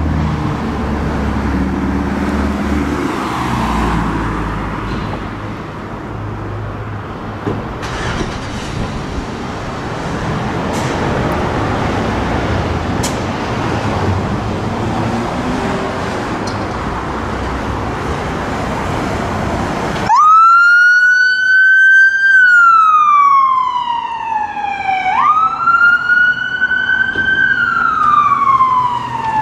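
Traffic and vehicle engine noise with some wind on the microphone. About two-thirds of the way through, an emergency vehicle's siren starts abruptly and wails loudly, rising and then falling slowly in two cycles about five seconds each.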